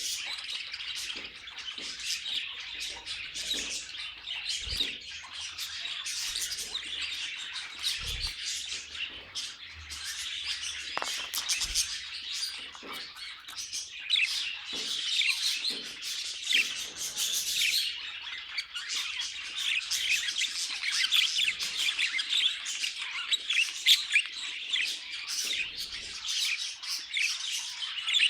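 Budgerigars chattering and warbling continuously, with rapid overlapping chirps and occasional squawks.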